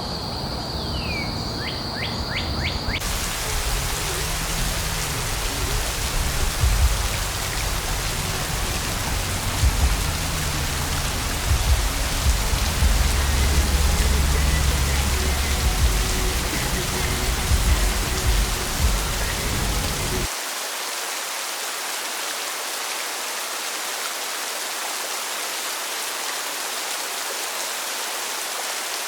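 A steady, even hiss like rain. Soft, low background music plays under it until about two-thirds of the way through, then stops abruptly, leaving the hiss alone.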